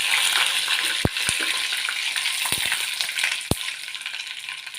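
Mustard seeds and curry leaves sizzling in hot oil in a frying pan, with several sharp pops of the seeds crackling. The sizzle is loudest at first and eases off.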